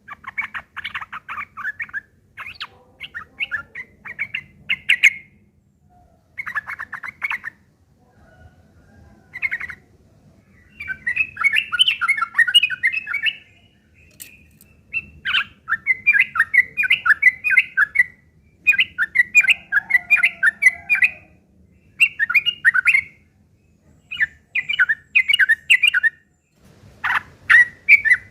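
Yellow-vented bulbuls (trucuk) giving rough, rapid chattering calls in repeated bursts of one to two seconds, the harsh chatter of birds fighting.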